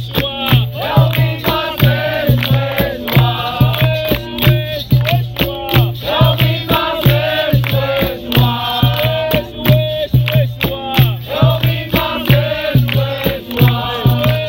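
Capoeira roda music: a group of voices singing a chant together over a steady, driving beat of berimbau, drum and rattling percussion.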